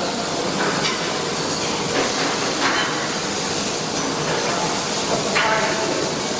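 Steady hissing crackle of arc welding, with a few short metallic clinks.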